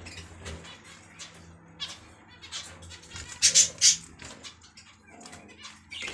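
Cage birds, finches and lovebirds, chirping with many short, high calls. A burst of three loud, shrill calls comes about three and a half seconds in.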